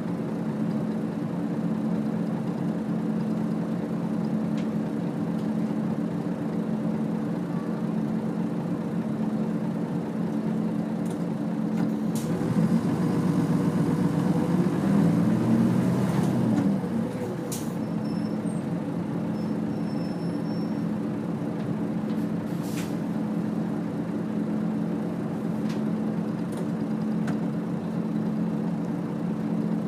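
Nissan Diesel UA city bus (KL-UA452KAN) heard from inside, its diesel engine running with a steady drone. About twelve seconds in it gets louder for some five seconds, the engine note rising and falling, then settles back to the steady drone; a few short sharp sounds follow.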